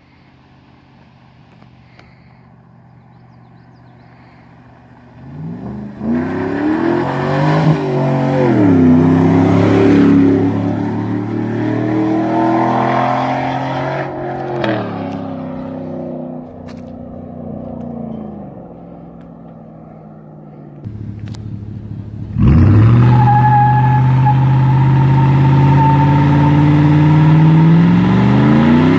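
Exhaust of a 2011 Chevrolet Silverado 1500's 5.3-litre V8 with the muffler deleted. It is faint for the first few seconds, then from about five seconds in the engine revs up and down through several rising and falling pulls. About three-quarters of the way through it suddenly gets much louder, holds steady, and climbs in pitch again near the end.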